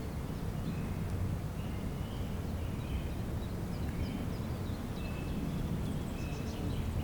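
Small birds chirping and trilling in short, scattered phrases over a steady low rumble.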